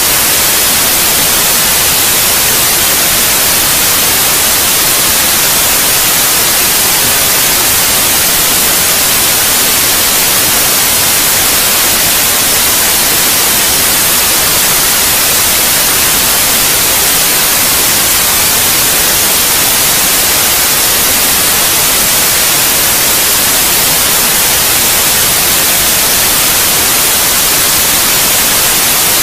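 Electronic white noise: a loud, even hiss that stays the same throughout.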